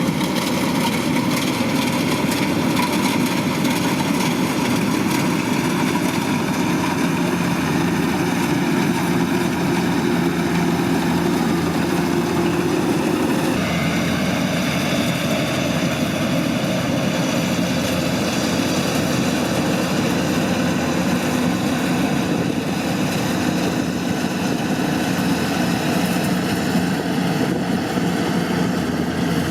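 Kubota DC-105X combine harvester's diesel engine running steadily under load, with the dense mechanical noise of the machine working.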